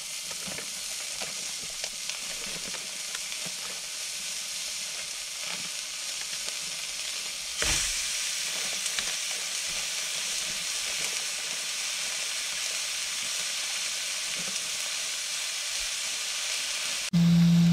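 Beef burger patties sizzling in a nonstick frying pan, a steady hiss. About eight seconds in a second raw patty is laid in with a short knock, and the sizzle grows louder. A steady low tone cuts in at the very end.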